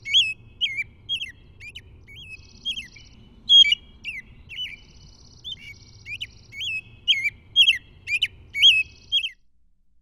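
Birds singing as heard through a parabolic microphone aimed slightly off target. Many short whistled notes sweep up or down, several a second, and a buzzy trill comes in about three times. A low rumble runs underneath, and everything cuts off abruptly about nine seconds in.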